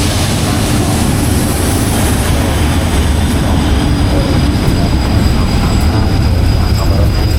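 Diesel train running close by at a station: a loud, steady low engine rumble with rail noise. From about two seconds in, a thin high whine runs over it.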